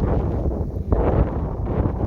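Wind buffeting the microphone in uneven gusts, with a hard gust about a second in.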